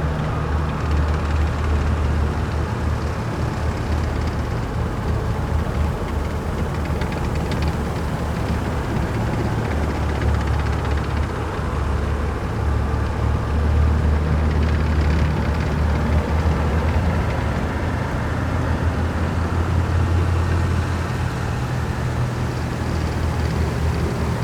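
Heavy military vehicles passing in a column, their diesel engines rumbling steadily with a continuous low drone and road noise, swelling a little as vehicles go by.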